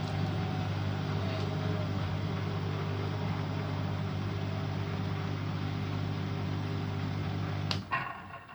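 Bosch Aqua Star washing machine running with a steady low hum, then stopping with a click near the end.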